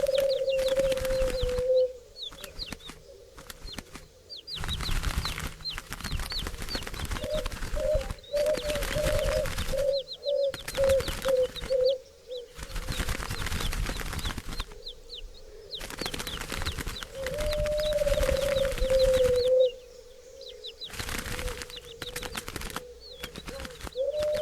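A flock of doves flapping their wings in flight, in bursts of a few seconds that start and stop abruptly. Under it runs a low wavering dove coo, broken into short pulses about halfway through, with short high chirps over the top.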